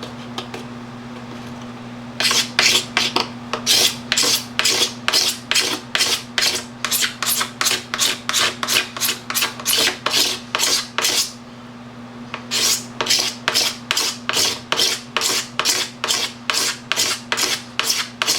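Hand scraping of a plastic motocross gas tank's surface to take material off, in quick even back-and-forth strokes about two and a half a second. The strokes pause briefly about two-thirds of the way through, then resume.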